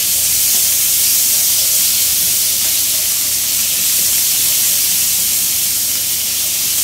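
Minced beef sizzling steadily in hot oil in a frying pan as it is stirred with a spatula.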